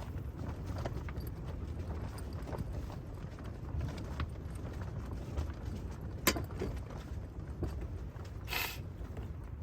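Scattered light clicks and knocks over a steady low rumble, with one sharp click about six seconds in and a brief rustle near the end.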